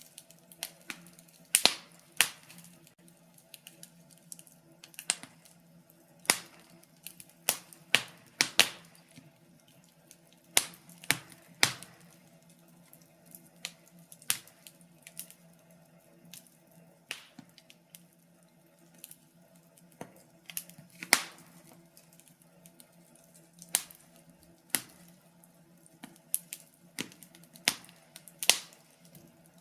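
Wood fire crackling in a fireplace: irregular sharp pops and snaps, some loud, a few in quick pairs, over a faint steady low hum.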